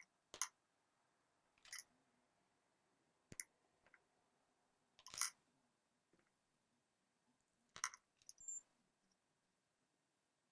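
Faint, scattered small clicks and taps from tools being handled during soldering work, about six of them spread over some nine seconds.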